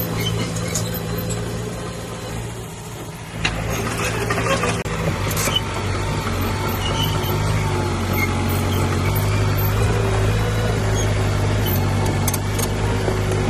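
Heavy diesel engine of earthmoving machinery running steadily. Its level drops for a moment, then picks up again about three seconds in, with a few sharp clanks of metal and stone.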